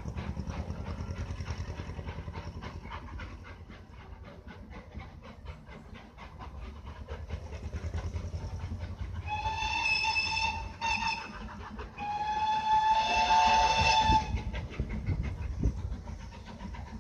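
Great Western Railway Modified Hall class 4-6-0 steam locomotive Wightwick Hall running with a steady, rapid beat, sounding its whistle twice from about the middle on. The first blast is broken briefly; the second is longer and the loudest.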